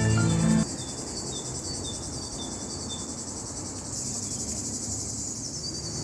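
Crickets chirping in a steady, fast-pulsing high-pitched trill. A few seconds of background music end within the first second.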